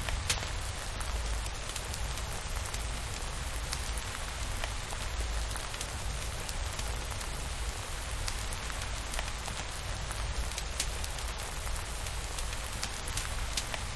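Steady rain falling, an even hiss with scattered sharp drop ticks over a deep steady rumble.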